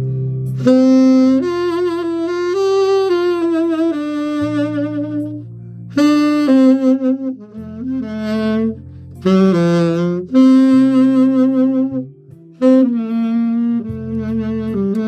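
Saxophone playing a slow melody in phrases, with vibrato on the held notes, over a backing track of sustained bass notes and chords.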